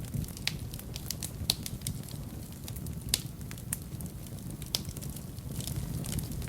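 Wood fire crackling in a fireplace: scattered sharp snaps and pops, a few louder ones about one and a half, three and almost five seconds in, over a low steady rumble of the flames.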